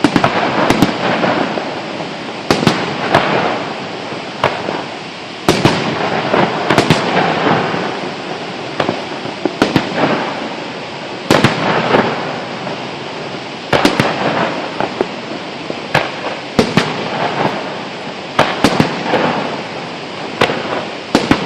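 Fireworks display: a rapid, irregular series of loud aerial shell bangs, some in quick clusters, over continuous rumbling and crackling from bursting shells.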